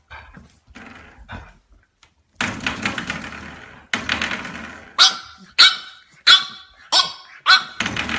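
French bulldog barking: a regular run of sharp barks, about one every half second, fills the second half, after a stretch of softer, rougher dog noise.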